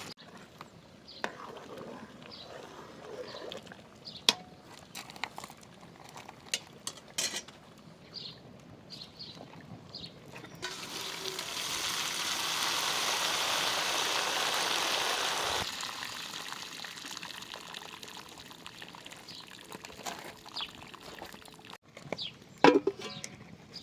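Water pouring steadily for about five seconds midway, swelling slightly and then stopping abruptly. Around it come scattered small kitchen clicks and knocks, with one louder knock near the end.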